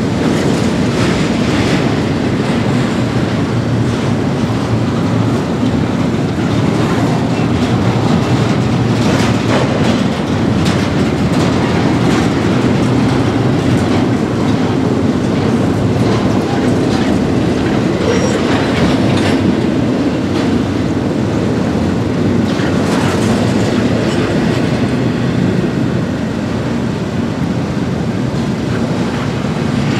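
Double-stack container freight train rolling past, a steady heavy rumble of wheels on rail with repeated clickety-clack as the well cars cross rail joints.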